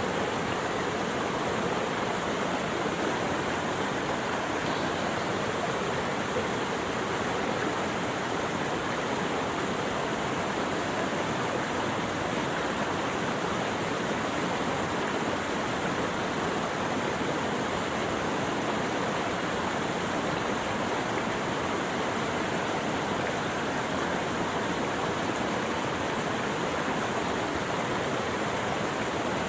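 Flowing water rushing steadily, a continuous even hiss with no birds or other sounds standing out.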